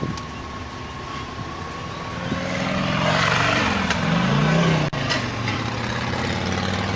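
2002 Jeep Liberty's 3.7-litre V6 idling steadily. Midway a louder rushing sound swells and fades, its pitch rising then falling.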